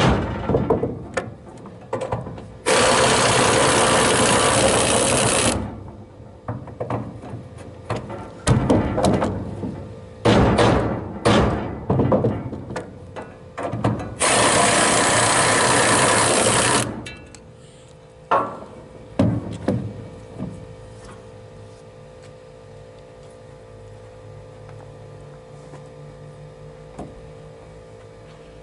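A power tool runs at a steady speed twice, each time for about three seconds, with knocks and clatter of work on the pieces in between; after that only a low steady hum is left.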